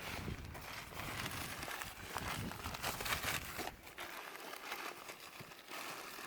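Irregular rustling and crackling of dry leaves and undergrowth, with no steady rhythm and quieter in the second half.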